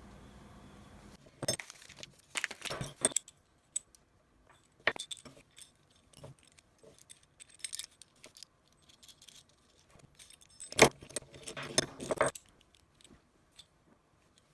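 Metal hand tools and small metal parts clinking and jangling as they are handled, in several short clattering spells with pauses between.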